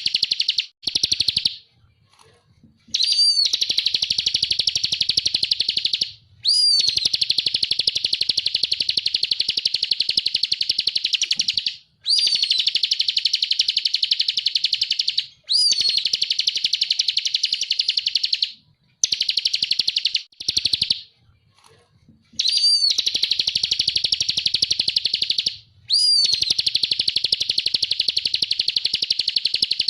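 Bar-winged prinia (ciblek) song: a string of long, very rapid buzzy trills of about three to five seconds each. Each trill opens with a short upward-flicked note, and there are short pauses between them.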